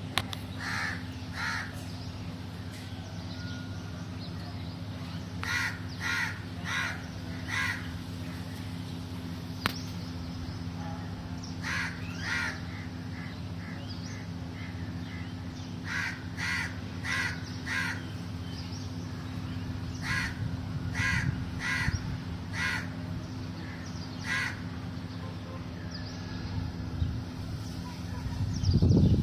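A crow cawing repeatedly in short bursts of two to four caws, with gaps of a few seconds between bursts, over a steady low hum.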